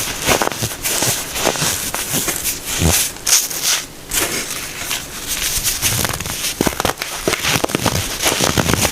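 Packed baking soda being crushed and crumbled by hand, a dense run of crisp crunches and squeaky crackles with a brief lull midway.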